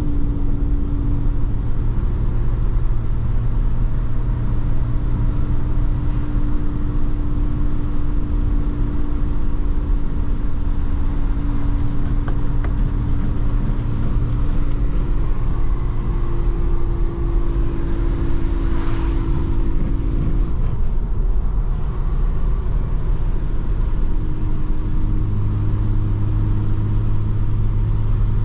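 Mercedes-AMG C43's engine and exhaust droning at a near-constant pitch while cruising at steady speed, over tyre and road rumble. A short rush of noise passes about two-thirds of the way through.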